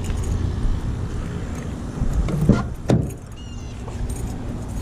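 Keys jangling at a Toyota pickup's ignition as the truck is about to be started, with two sharp knocks about two and a half and three seconds in, over a low steady rumble.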